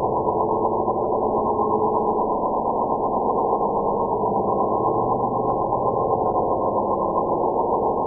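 Steady, muffled synthetic drone with a faint thin high tone above it: an invented 'space sound' made for a deep-sky object, not a real recording.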